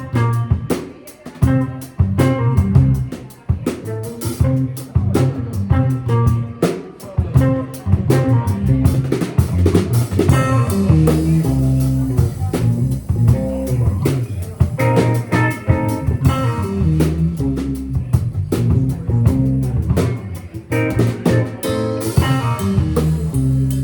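Band playing a funk groove: drum kit with bass guitar and electric guitar.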